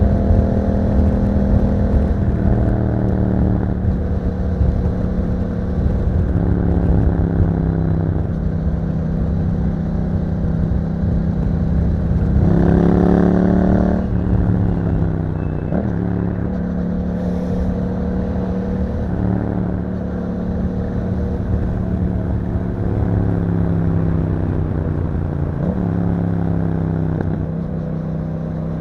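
Yamaha MT-07's 689 cc parallel-twin engine through an Akrapovic exhaust with a dB killer, heard from the ridden bike. The engine note rises and falls again and again as the rider opens and rolls off the throttle through the bends. It is loudest in a hard pull about halfway through.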